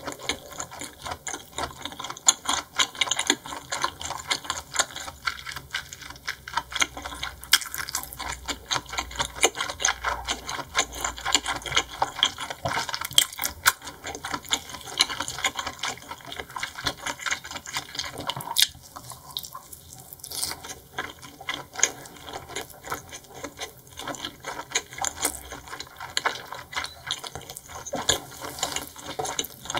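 Close-miked chewing and wet mouth sounds of eating seafood: rapid sticky clicks and smacks, with a short lull about two-thirds of the way in.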